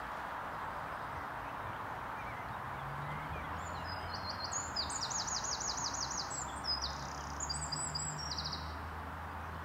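A small songbird singing high, fast phrases of rapidly repeated notes, over a steady outdoor background hiss. A low steady hum, like a distant engine, starts about three seconds in.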